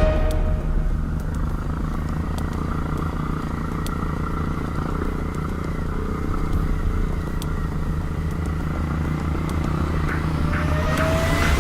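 Nitro Sky 125cc pit bike's single-cylinder engine running at a steady, low speed, with a few light clicks. The engine note rises and grows louder near the end.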